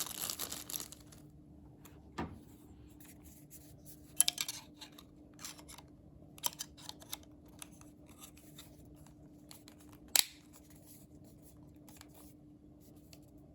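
Plastic packaging crinkling for about a second, then scattered light clicks and taps of small plastic parts being handled, the sharpest about 2, 4, 6.5 and 10 seconds in, over a faint steady hum.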